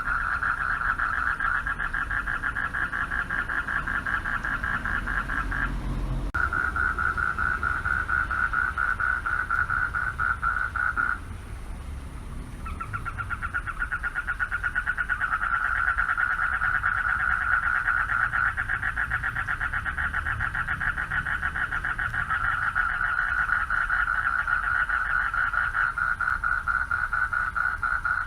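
Chorus of male frogs calling for mates: a dense, fast-pulsed trill held at one pitch, breaking off briefly about six seconds in and again for a second or two near the middle, with a faint low rumble underneath.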